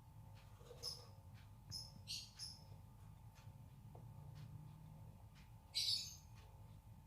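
Small birds chirping a few short, high calls: three or four around the first two seconds and a louder one near the end, over a steady low hum.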